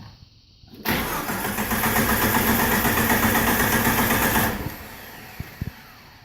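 Jeep Wrangler TJ's 4.0 straight-six being cranked over by the starter for about three and a half seconds, then cut off, during testing of an intermittent no-start.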